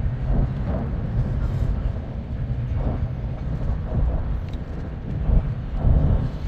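Loud, continuous low rumbling noise.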